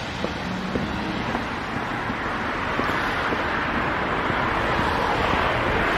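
Road traffic noise, with a car approaching and growing steadily louder towards the end.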